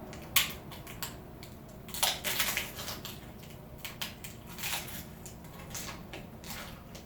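Crunchy food being bitten and chewed close to the microphone: sharp crackling crunches at irregular intervals, loudest about half a second in and in a cluster around two seconds in.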